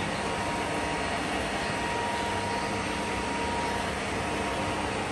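Metal lathe running while turning a steel shaft: a steady machine noise with a faint high whine and a lower hum.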